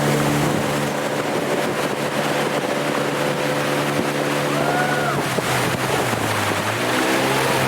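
An engine running steadily over a rush of wind and water-like noise. Its pitch dips for about a second near the end, then comes back up.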